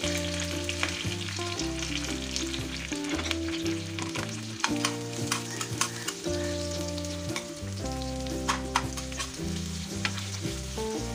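Sliced onions sizzling in hot oil in a dosa pan, stirred with a metal spatula that clicks and scrapes against the pan many times.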